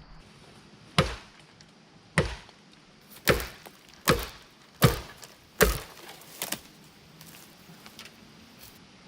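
Chopping into bamboo: six sharp blade strikes about a second apart, then a lighter seventh stroke.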